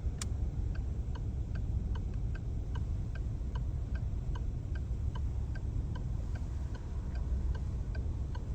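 Steady, even mechanical ticking, about two and a half ticks a second, over a low steady rumble.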